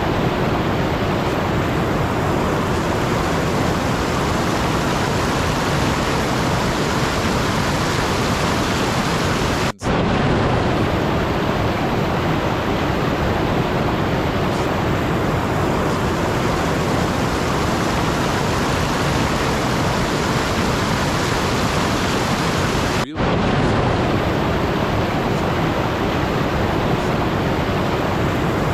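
Steady, even rushing noise with no pitch or rhythm, like pink noise or heavy rain. It cuts out for an instant twice, about ten seconds in and again about thirteen seconds later.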